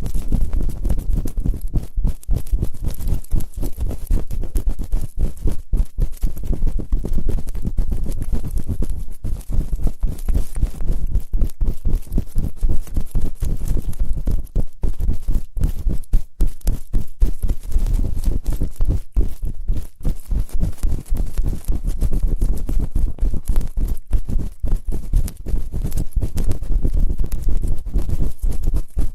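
ASMR ear-cleaning sounds: close, muffled scratching and rubbing on a microphone, an irregular run of soft scrapes with many short gaps.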